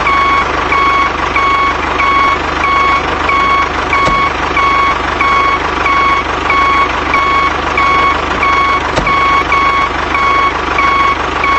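Reversing-alarm beeping, about three short beeps a second, over a steady engine-like hum.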